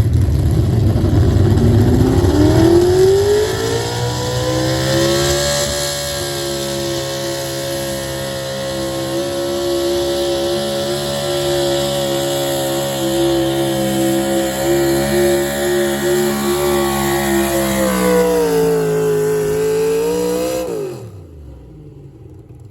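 Four-wheel-drive pulling truck's engine at full throttle under load during a pull. It winds up over the first few seconds and holds high revs, sags briefly near the end, then shuts off with its pitch falling away about two seconds before the end.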